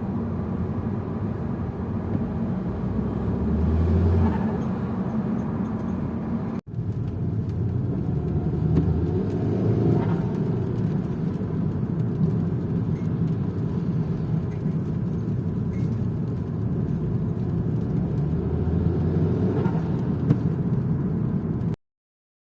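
Saab 9-5 2.0t's tuned turbocharged four-cylinder engine driving through town, swelling in short bursts of acceleration about 4, 10 and 19 seconds in, with turbo flutter from its dump valve as the throttle lifts. The sound drops out for an instant about 7 seconds in and cuts off abruptly just before the end.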